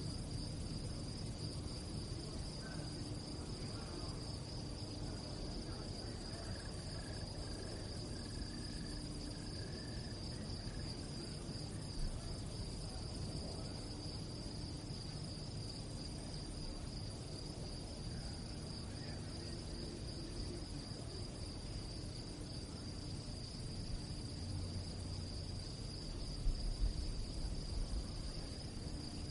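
Crickets chirping in a steady, unbroken high trill, over a low background rumble, with a few soft low bumps near the end.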